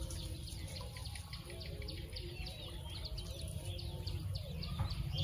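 Small birds chirping in many quick, repeated notes, over a steady low rumble of outdoor noise.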